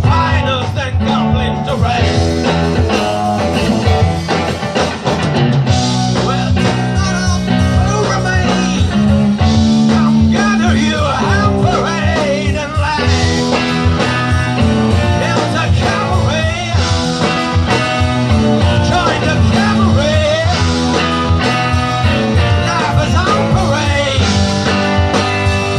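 A rock band playing live: guitar with bending notes over sustained bass notes and a steady drum beat.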